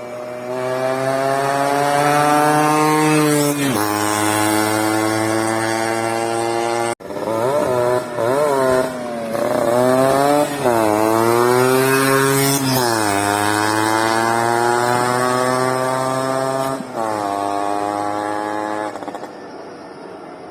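Yamaha RX100's two-stroke single-cylinder engine being revved. The revs climb and hold for a few seconds, then fall back. After a brief break about seven seconds in, a run of quick throttle blips follows, then another long climb that holds before dropping to a lower, steadier speed near the end.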